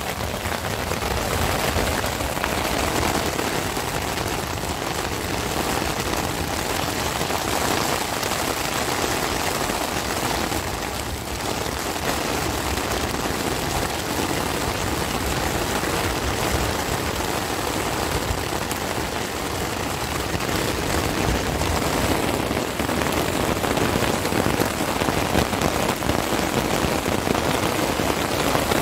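Heavy storm rain falling steadily on the fabric of a small tent, heard from inside the tent as an even, dense patter.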